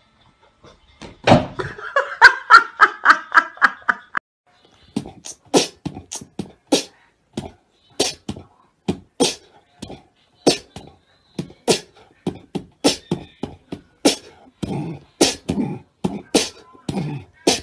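A steady beat of sharp percussive hits, a little under two a second. It follows a few seconds of fast rattling rhythm near the start.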